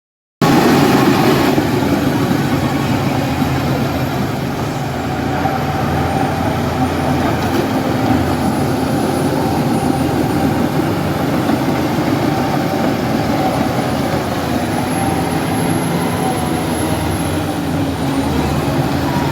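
Heavy diesel earthmoving machinery running steadily, engine sound constant throughout after cutting in just after the start.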